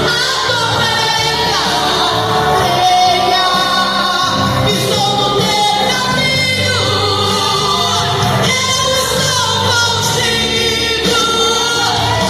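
Gospel song: voices singing with vibrato over a steady instrumental accompaniment with a sustained bass.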